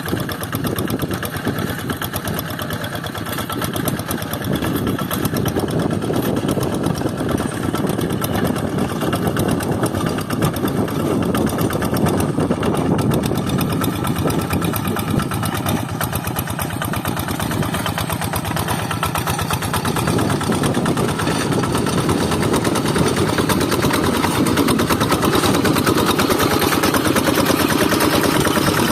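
Quick Zeva G3000 two-wheel hand tractor's Kubota diesel engine running steadily while levelling a rice paddy, growing a little louder toward the end.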